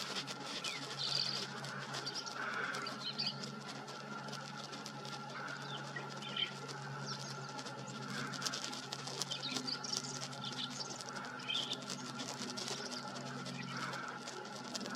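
Green-tailed towhee giving short high call notes every couple of seconds, over a steady crackling rustle of dry leaf litter.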